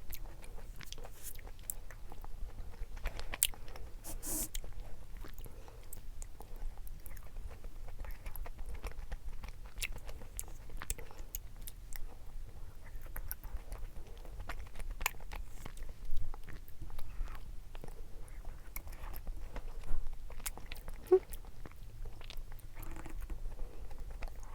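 Close-miked eating sounds: a person chewing and swallowing ice cream, with many small mouth clicks and smacks and a few louder ones.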